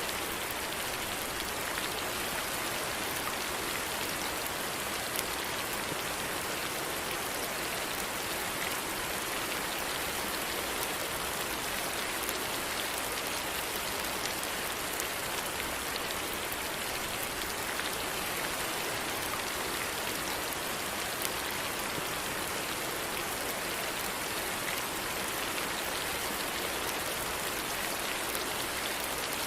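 Steady rainfall, a constant hiss of rain with scattered drops ticking on a surface.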